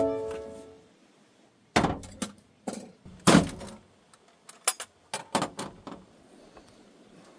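A string of sharp knocks and clinks, about a dozen in irregular bunches, with a short ring after the loudest one near the middle: hard objects being handled and set down.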